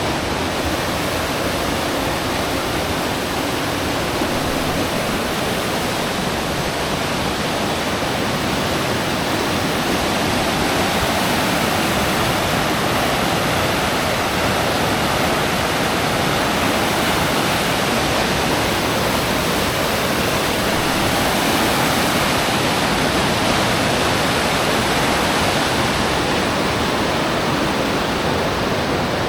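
Fast river water rushing over rocks, a loud, steady, unbroken rush.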